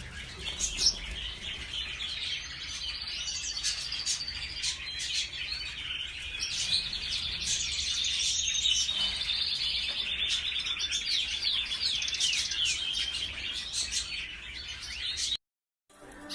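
Many caged canaries chirping and singing at once, a dense overlapping twitter of trills and calls that stops abruptly about fifteen seconds in.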